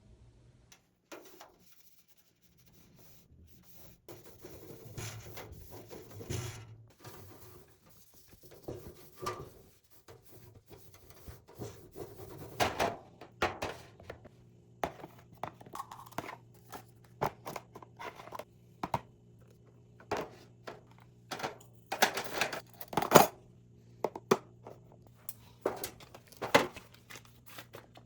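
Household items being handled and put down: scattered knocks, taps and rustling, busier in the second half, over a low steady hum.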